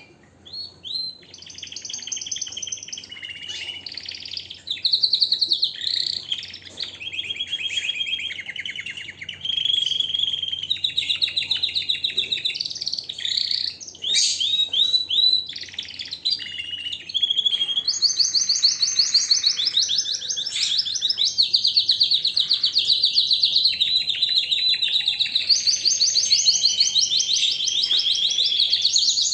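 Domestic canary singing a long, loud song of rapid trills, one phrase of fast repeated notes running into the next with only brief gaps.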